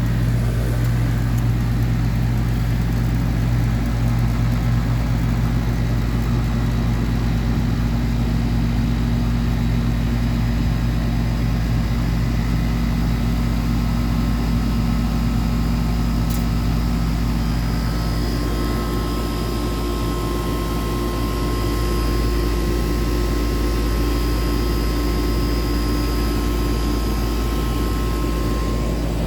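Air conditioner's outdoor unit running with a steady hum from the compressor and fan, just restarted on new contactor contacts. It sounds good.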